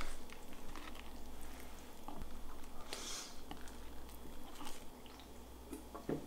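Close-up mouth sounds of a person chewing a mouthful of double-patty burger, soft and wet, with small clicks, and a brief rustle of the paper wrapper about three seconds in.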